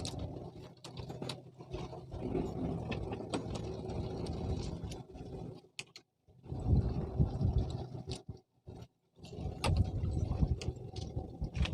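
Irregular mechanical clicking and rattling over a low rumble, cutting out briefly twice about halfway through.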